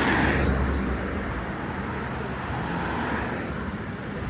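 Street traffic: a motor vehicle passing close by, loudest in the first second, then a steady hum of traffic.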